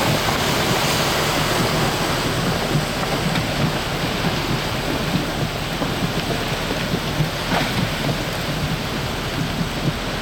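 Heavy rain from a severe thunderstorm pouring down steadily, a dense even hiss with irregular low patters.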